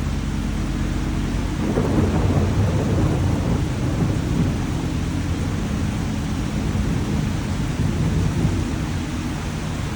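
Steady rain with a low rumble of thunder that swells about two seconds in and rolls on.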